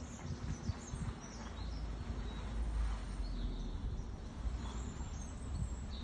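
Small birds chirping faintly in short high calls, a few times, over a low steady rumble.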